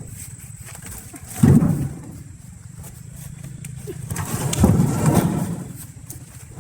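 Logs being loaded onto a truck: a loud wooden knock about a second and a half in, then a longer burst of heavier knocking and scraping from about four to six seconds, over a steady low hum.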